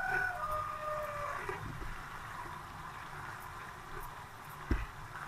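Masala and cream sizzling in a non-stick pan over high heat while being stirred with a spatula, with a single knock of the spatula against the pan near the end.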